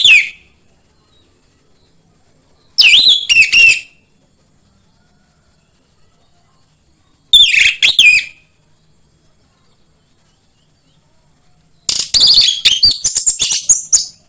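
Orange-headed thrush (anis merah) singing, played as a lure song to set caged birds singing. It sings short phrases of rapid, varied high whistles with pauses of a few seconds between them, and near the end comes a longer, faster run of notes.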